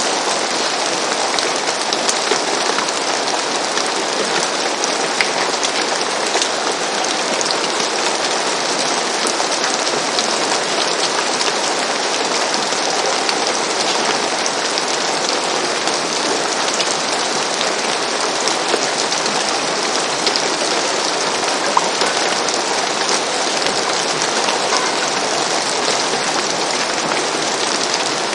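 Steady rain falling on a roof, an even hiss dotted with many small drop ticks.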